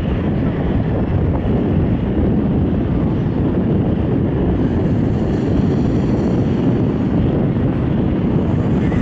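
Jet airliner engines running, heard as a loud, steady noise mixed with wind buffeting the microphone. A faint high whine rises out of it about halfway through.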